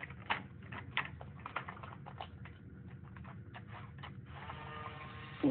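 Irregular light clicks and taps of a toy Hess truck being handled and rolled, then about four seconds in a small battery motor starts a steady whir.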